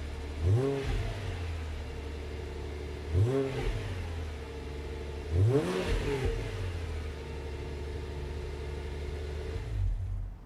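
Exhaust of a Subaru Outback 3.6R's flat-six engine, fitted with OEM WRX mufflers, idling and blipped three times, each rev rising and falling quickly back to idle. The tone is deeper and throatier than stock. The sound cuts off abruptly near the end.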